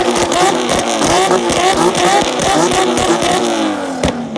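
Sports car engine revved hard in quick repeated throttle blips, about two to three a second, in a two-step rev battle. The revs fall away near the end, and a sharp crack follows about four seconds in.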